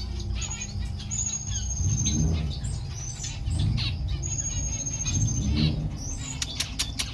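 Strawberry finch (red avadavat) singing: high, thin whistled notes and chirps, some held steady, with a few low rumbles underneath and sharp clicks near the end.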